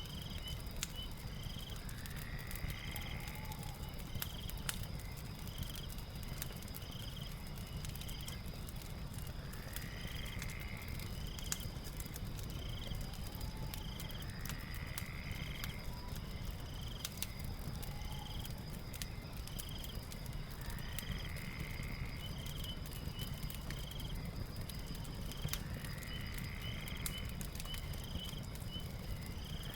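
Crackling fire, with scattered sharp pops over a low rumble, mixed with night ambience: a steady high insect drone, short chirps repeating about once a second, and a rising call every few seconds.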